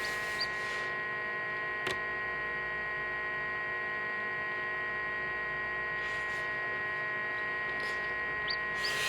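Steady electrical hum of an egg incubator running, made of many steady tones. There is one click just before two seconds in, and a few brief, faint high chirps from hatching chicks near the start and near the end.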